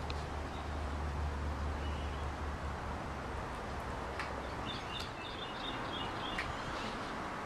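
Outdoor background noise with a small bird chirping a quick run of short high notes past the middle. A low hum dies away about a third of the way in.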